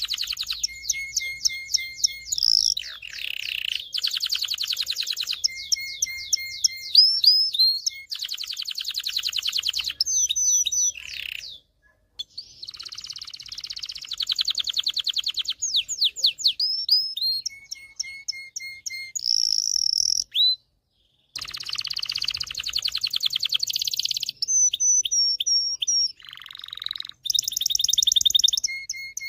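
Domestic canary singing a long varied song: fast trills of rapidly repeated notes, quick sliding whistles and short steady piping notes, with two brief pauses.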